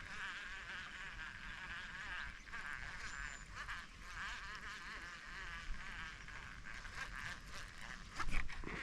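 A steady chorus of insects chirring, with a brief louder noise about eight seconds in.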